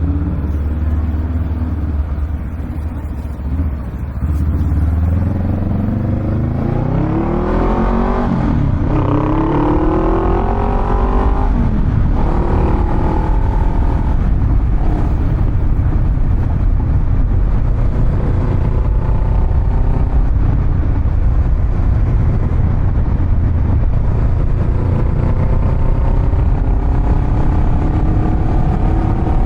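Honda Rebel 500's parallel-twin engine through a Vance & Hines exhaust, running low for a few seconds, then accelerating hard. Its pitch climbs and drops back twice as it shifts up, then it settles into a steady, slowly rising drone at cruising speed.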